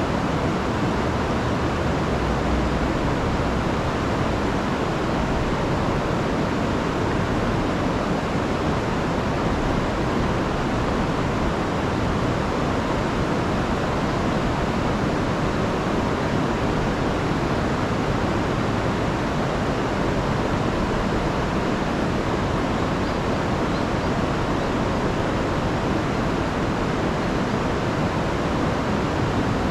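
Rain-swollen river rushing steadily over falls, an unbroken roar of water with no let-up.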